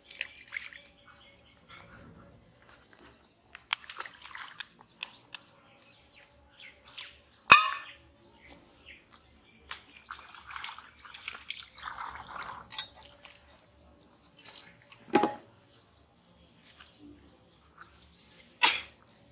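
Small birds chirping in short, scattered calls, broken by three sudden sharp knocks, the loudest about a third of the way in and the others near the three-quarter mark and near the end. A faint steady whine runs underneath.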